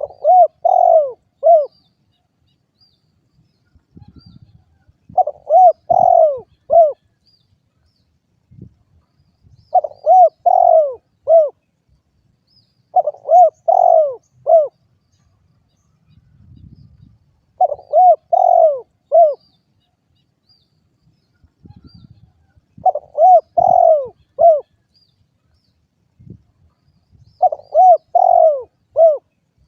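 Spotted dove (derkuku) cooing: a phrase of three or four notes, repeated seven times at intervals of about four to five seconds. Faint low thumps fall between the phrases.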